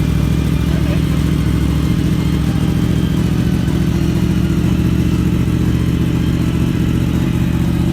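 2015 Yamaha YZF-R1's crossplane inline-four engine running steadily through a Two Brothers aftermarket exhaust, with no revving up or down.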